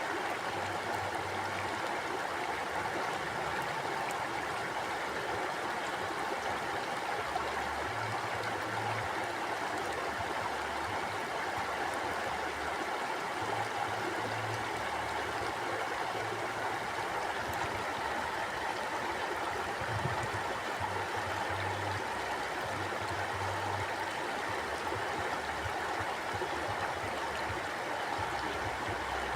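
Mountain stream flowing: a steady rush of water, with low rumbles coming and going underneath.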